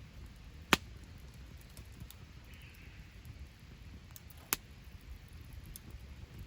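Wood fire in a fire pit crackling, with two sharp pops, the louder one about a second in and another a few seconds later, and fainter ticks over a low steady rumble.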